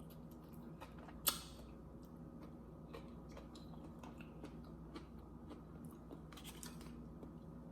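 Faint close-miked chewing and eating mouth sounds: soft scattered clicks and smacks, with one sharper click about a second in and a small cluster near the end.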